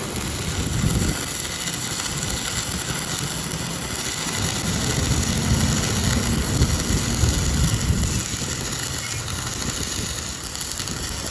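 Steady mechanical noise of workshop machinery running, starting abruptly.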